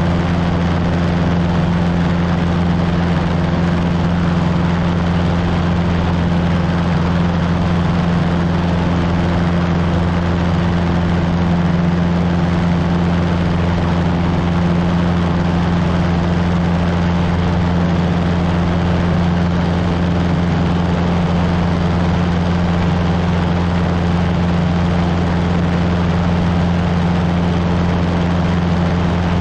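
Cessna 150's four-cylinder Continental O-200 engine and propeller running at a steady, unchanging speed, a constant drone with no change in pitch.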